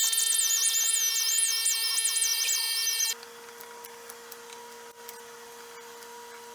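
Power grinder running and grinding, with a high, wavering squeal over its steady whine as it cuts; it stops abruptly about three seconds in, leaving a faint steady hum.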